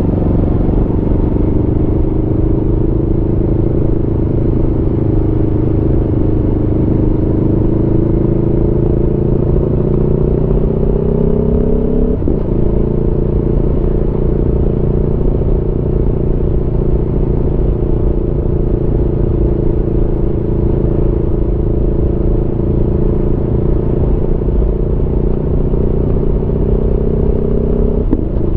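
Aprilia Tuono V4 motorcycle's V4 engine under way, its pitch climbing slowly as the bike accelerates. About twelve seconds in the pitch drops suddenly at a gear change, then holds fairly steady before another short drop near the end.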